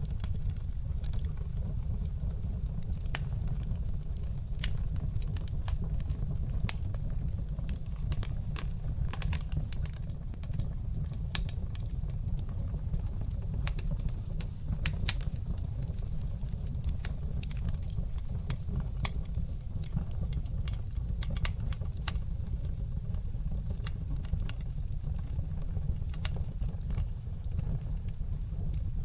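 Wood fire crackling in a fireplace: many sharp, irregular pops and snaps over a steady low rumble, with a couple of louder pops midway.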